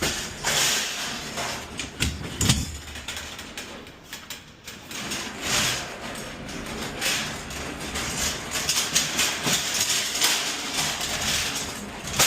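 Irregular knocks, scrapes and rattles of empty return containers being dragged and stacked in a box truck's cargo area, with a few harder bangs in the first few seconds.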